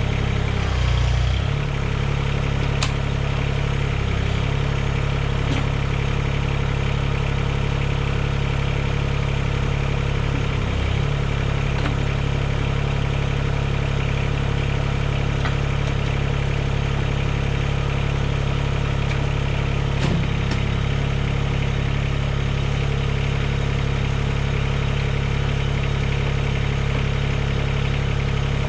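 Mahindra eMax 20S compact tractor's diesel engine idling steadily. Its note dips briefly about a second in and again around eleven seconds.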